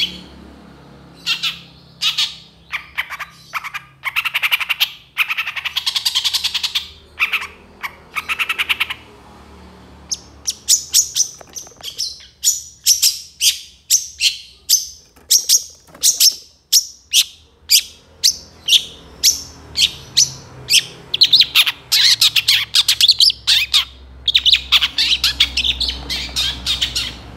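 Long-tailed shrike singing a loud, varied chattering song of quick bursts of high, harsh notes. Midway it switches to a run of evenly spaced sharp calls, about two a second, before breaking back into dense rapid chatter near the end.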